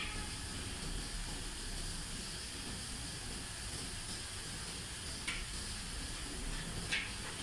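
Steady hiss, with two short sharp clicks in the last couple of seconds.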